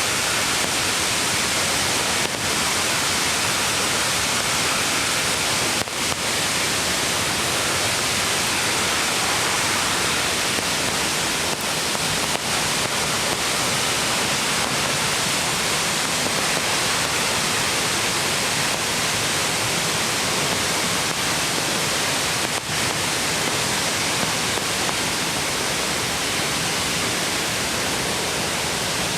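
Mountain stream rushing beside the path, a steady dense wash of water.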